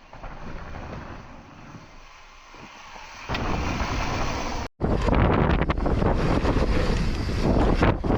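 Mountain bike descending a dirt trail: tyre roar, frame and chain rattle and wind buffeting the camera microphone. It is quieter at first, grows louder about three seconds in, cuts out briefly just under five seconds in, then comes back louder and rougher.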